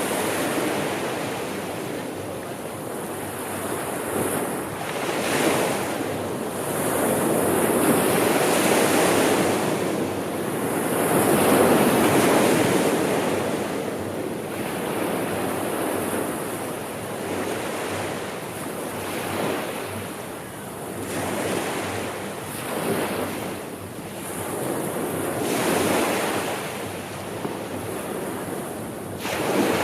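Sea waves breaking and washing on the shore, swelling and ebbing every few seconds, with wind over them.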